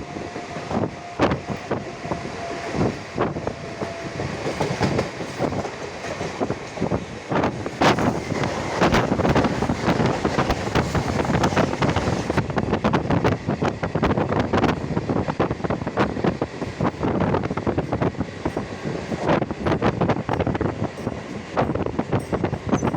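Mumbai suburban local train running on the rails, with the steady rattle and clatter of its wheels and carriages.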